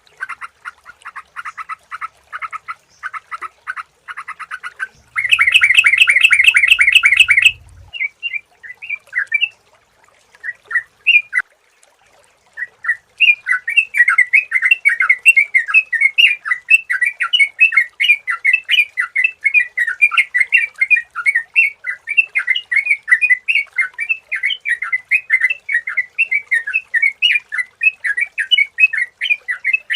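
Sooty-headed bulbul (trucukan) calling in quick chattering runs of bright notes, with a much louder dense burst about five seconds in, a brief sparse lull, then nonstop rapid chatter for the second half.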